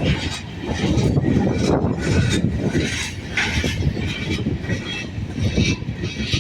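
A freight train's cars rolling past, their steel wheels clattering and knocking over the track in a fast, uneven rhythm, with faint wheel squeal.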